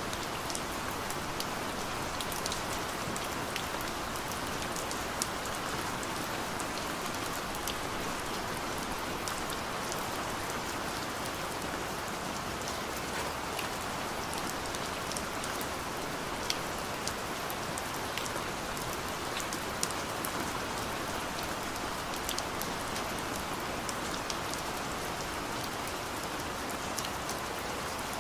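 Steady rain falling on a car from inside the cabin, a constant patter with many individual drops ticking sharply on the roof and glass.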